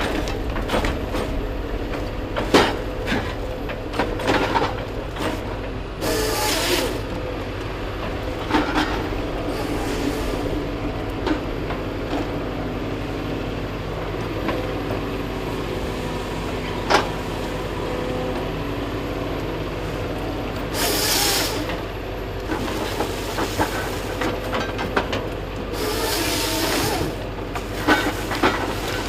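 Heavy forestry machine's diesel engine running steadily under load, with scattered knocks and clunks and three bursts of hiss, one about six seconds in and two near the end.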